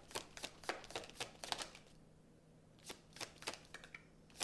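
Tarot cards being shuffled by hand: a quick run of light card snaps and riffles for about two seconds, a brief pause, then a few more card clicks.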